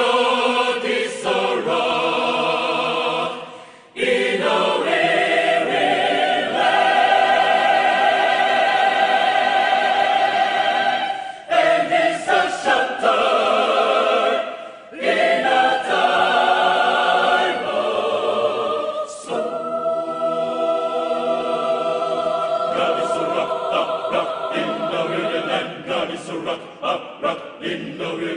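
Mixed adult choir singing held chords in several parts, with brief breaks between phrases. After about twenty seconds the singing turns to short, rhythmic notes.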